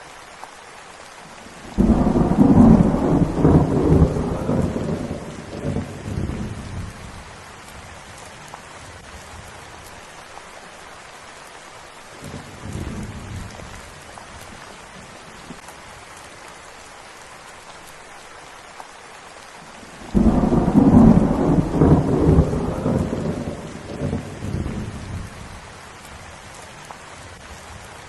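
Steady rain falling, with rolls of thunder: two loud rumbles that start suddenly about two seconds and twenty seconds in and die away over several seconds, and a fainter one in between.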